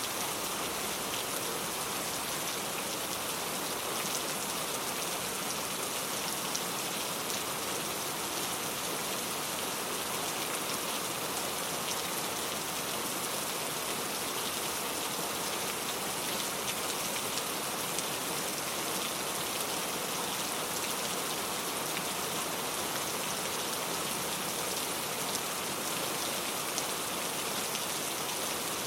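Steady rain falling, an even hiss with scattered patter of drops.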